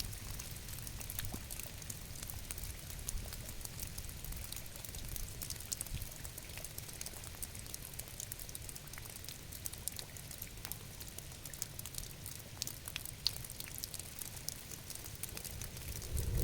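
Steady rain falling, with many separate drops ticking sharply over a soft low rumble.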